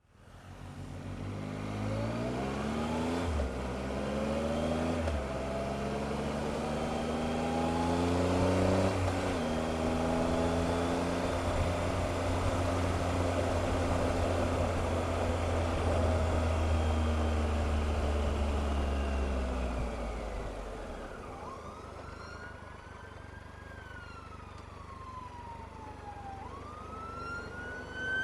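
Motorcycle engine pulling away and accelerating through the gears, with several gear changes in the first ten seconds, then running steadily until it dies away about twenty seconds in. After that an emergency vehicle siren wails, rising and falling, growing louder near the end.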